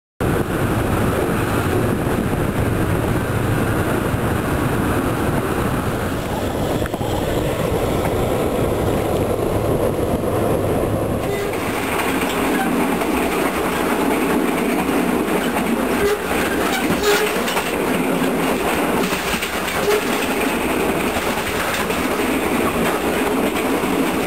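Thai passenger train in motion, heard from inside the carriage: the steady noise of the wheels running on the rails, changing in character about halfway through.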